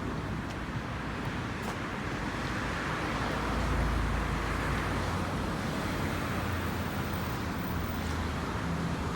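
Road traffic going by on a highway: a steady hum of passing cars, with a heavier low rumble from a vehicle passing about three to five seconds in.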